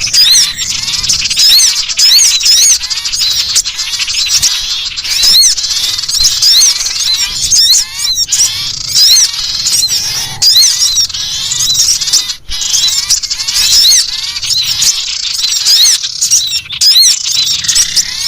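Sirtu bird giving its harsh, chattering 'ngekrek' alarm call, the threatened call used as a bird-trapping lure. It is a continuous run of quick, high, repeated notes, with a short break about twelve seconds in.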